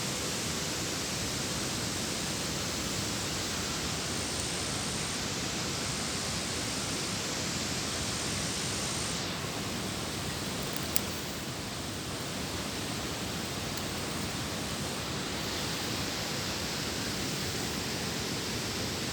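Steady rushing hiss of falling water, with no break. A short click about eleven seconds in.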